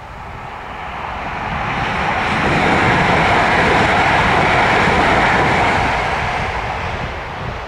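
Electric passenger train passing the level crossing at speed: a loud rush of wheel, rail and air noise that builds, holds at its loudest through the middle, then fades as the last car goes by.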